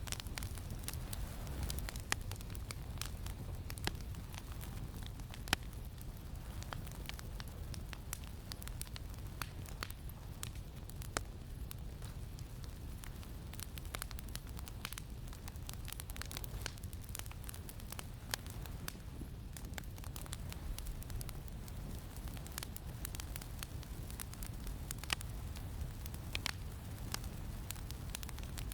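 Campfire crackling, with sharp pops and snaps scattered irregularly over a steady low rumble of wind.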